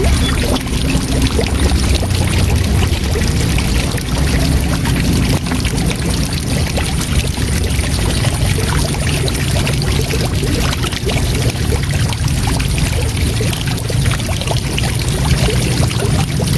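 Waterfall rushing steadily, an unbroken wash of falling water with a deep rumble underneath.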